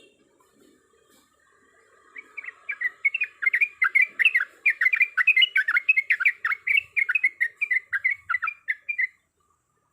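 Yellow-vented bulbul (trucuk) singing a long rolling song: a fast run of bubbly, rising-and-falling notes at about five a second. It starts about two seconds in and stops abruptly near the end.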